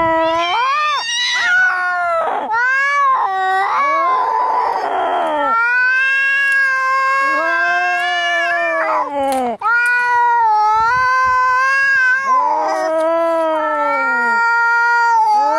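Cats caterwauling in a fight: long, wavering yowls, one after another, with a harsh rasping burst about four seconds in.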